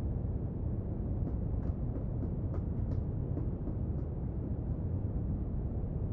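Steady brown noise, a deep even rushing hiss with most of its weight in the low end. A few faint light clicks of desk work come through it between about one and four seconds in.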